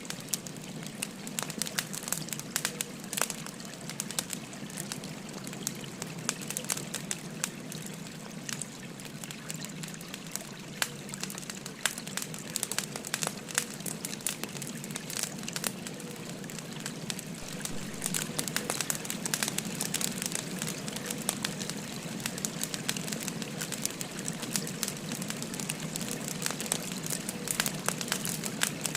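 Wood fire crackling, with many sharp pops and snaps, over a steady rush of a flowing river.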